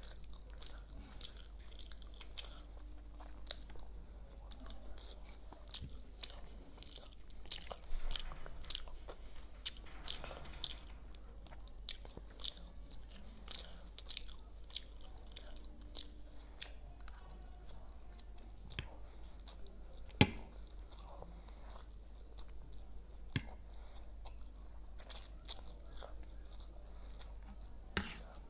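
Close-miked mouth sounds of a person eating chowmein noodles: chewing with many small wet clicks, one sharp click about twenty seconds in being the loudest, over a low steady hum.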